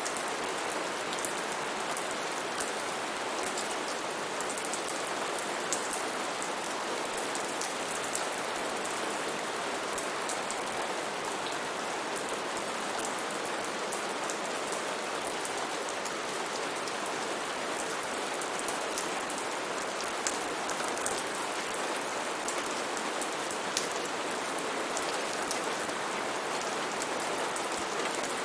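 Steady heavy rain falling, an even hiss with scattered close drops ticking on surfaces.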